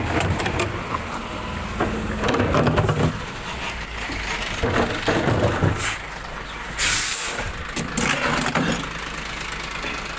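Old glass recycling truck's diesel engine running steadily, with several clunks and rattles and a short burst of air hiss about seven seconds in.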